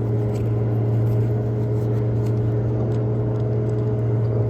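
Steady low mechanical hum, as of an engine running nearby, with a few faint clicks over it.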